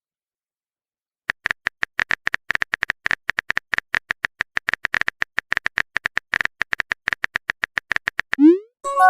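Phone-keyboard typing clicks, about eight taps a second, starting about a second in and running for some seven seconds. Near the end comes a short rising swoosh, the message-sent sound, then the start of a pitched notification chime.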